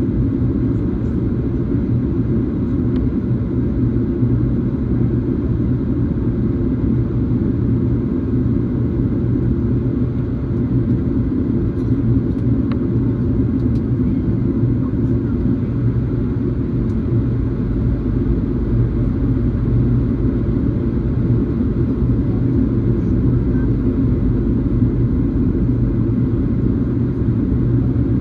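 Steady low rumble inside the cabin of a Boeing 737 airliner: engine and airflow noise.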